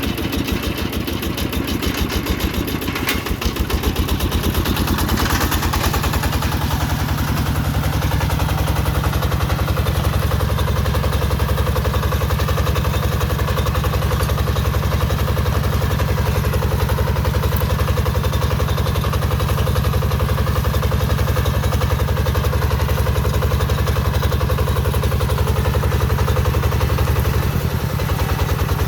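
Mekatech 14 hp walking tractor's single-cylinder diesel engine running with a fast, even clatter. It picks up over the first few seconds, runs steadily, and dips briefly near the end.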